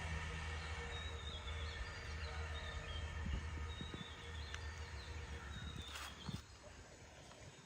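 Faint outdoor ambience: birds chirping over a low, steady engine hum that fades away about six seconds in.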